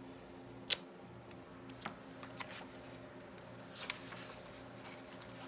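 Paper and craft supplies being handled on a desk: a handful of light, sharp clicks and taps, the sharpest about a second in and another small cluster near the end, over a steady low hum.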